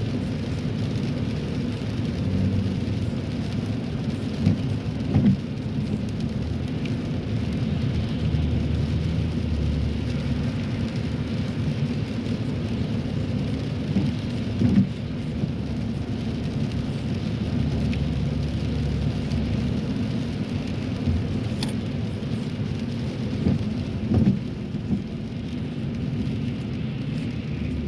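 Road noise inside a moving car's cabin on wet pavement: a steady low rumble with a hiss of rain and wet tyres, broken by a few short thumps that come in pairs about ten seconds apart.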